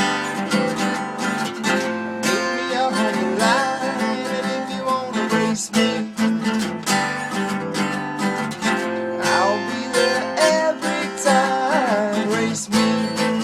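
Instrumental break in a song: strummed acoustic guitar keeping a steady rhythm under a lead melody that bends up and down in pitch.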